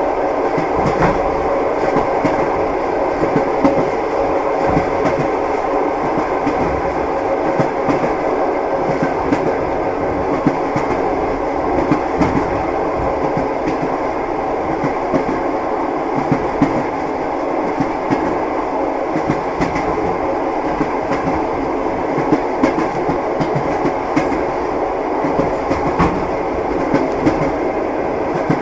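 Train wheels clacking over rail joints beneath a steady carriage rumble, heard from inside a passenger compartment.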